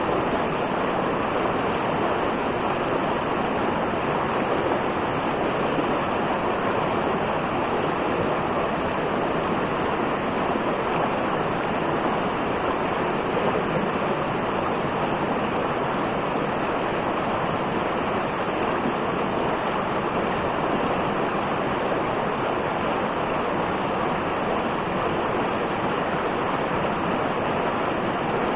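Steady rush of falling water from a waterfall, an even hiss that holds the same level throughout.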